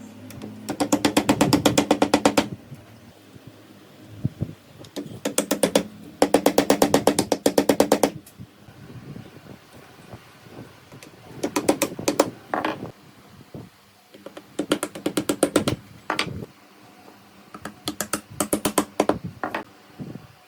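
An impact-type power tool rattling in five short bursts, each a fast, even run of blows over a steady motor hum, with small knocks in the pauses between.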